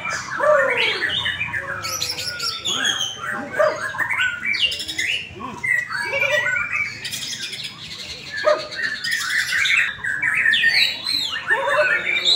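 White-rumped shamas (murai batu) singing at a songbird contest: a dense, fast, varied stream of whistles, sweeps and trills, with several phrases overlapping.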